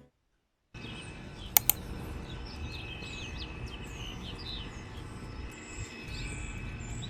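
Small birds chirping in short, repeated calls over a steady low background rumble, with two sharp clicks about a second and a half in.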